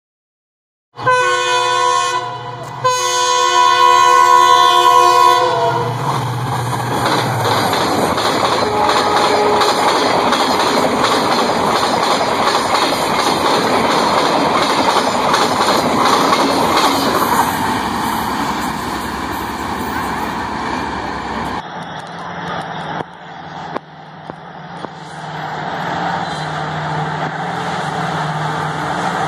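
Indian Railways diesel locomotive horn sounding twice, a short blast then a long one, followed by a fast passenger train's coaches rushing past with the clickety-clack of the wheels. After a sudden change, an approaching diesel locomotive's engine hums low and steady, its rumble growing nearer.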